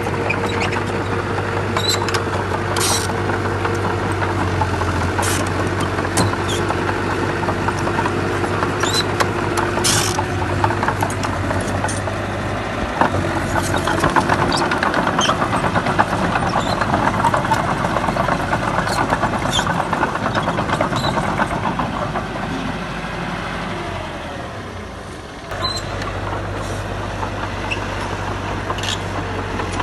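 Heavy construction-machine diesel engine running steadily, with scattered sharp clacks over it. The engine sound fades for a moment about three-quarters of the way through, then comes back.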